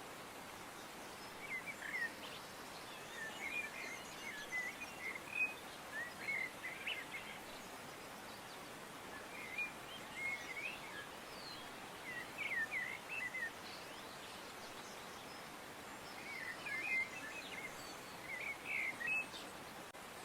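Songbirds chirping in short twittering phrases every couple of seconds over a steady background hiss.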